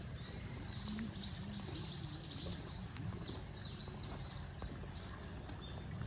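Small birds calling: a quick run of short, high notes early on, then a string of high, arching chirps, over a steady low background rumble.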